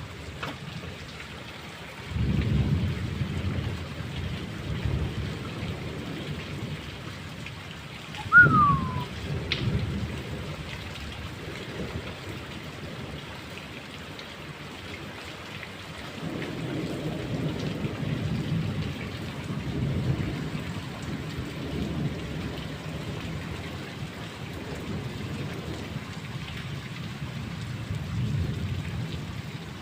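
Steady rain with thunder: a low rumble starts about two seconds in, a sharp loud crack comes about eight seconds in, and a long rolling rumble builds from about the middle and runs on to near the end.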